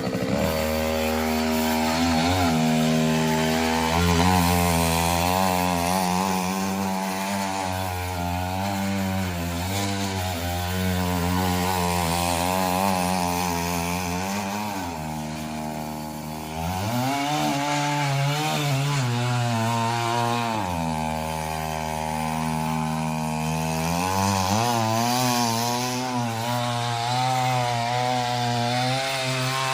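Small 3 hp two-stroke petrol engine of a mini power weeder running, its speed wavering; it revs up about halfway through, drops back a few seconds later, then rises again.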